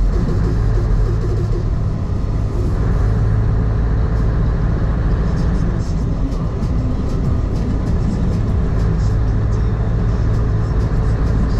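Truck engine running steadily on the road, a constant low drone with no change in pitch.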